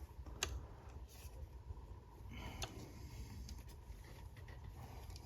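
Faint handling clicks and light taps of a new shaft seal being pressed into a ZF 8HP70 automatic transmission case by hand, with a couple of sharp ticks about half a second and two and a half seconds in.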